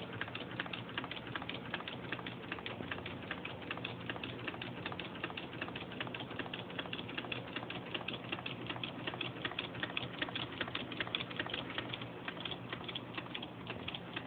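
Homemade Stirling engine running on its first run, its moving parts clicking rapidly and evenly, with a low steady hum underneath.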